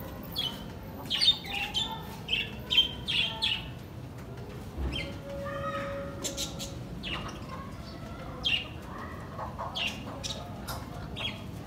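Small birds chirping: short, quick, high calls, thick in the first few seconds and scattered after.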